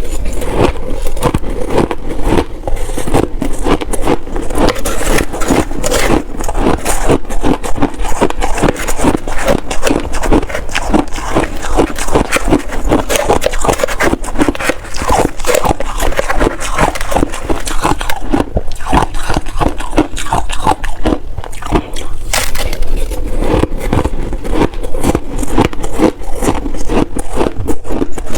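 Shaved ice being bitten and chewed close to the microphone: a dense, unbroken run of crisp crunching crackles.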